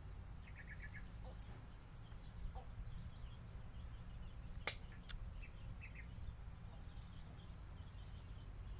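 Faint bird clucking: a quick run of clucks about half a second in and a couple more around six seconds, over a steady low rumble. Two sharp clicks come near the middle.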